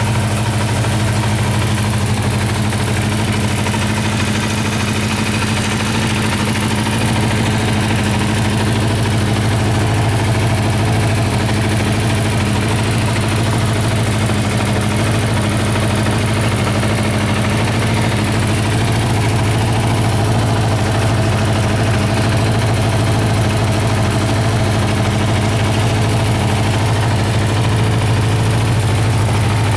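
Honda CB400FOUR's 408 cc air-cooled inline-four engine idling steadily.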